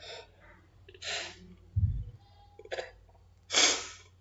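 A man's short breaths and mouth noises between phrases, with a low thump on the microphone a little under two seconds in.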